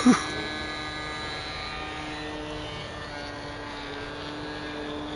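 Radio-controlled model aircraft's motor and propeller droning steadily in flight.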